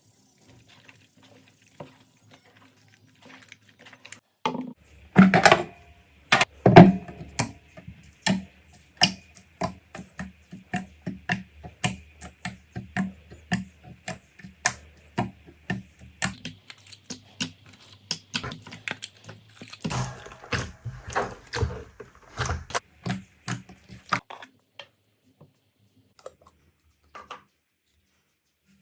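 Slime being pressed and squeezed by hand, giving sticky clicking and popping sounds at an uneven pace of roughly two or three a second. The clicks start about four seconds in, are loudest soon after, and stop a few seconds before the end.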